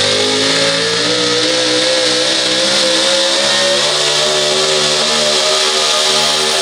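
A four-wheel-drive pulling truck's engine running hard at high revs. Its pitch climbs over the first couple of seconds, then holds high and steady as it pulls the sled.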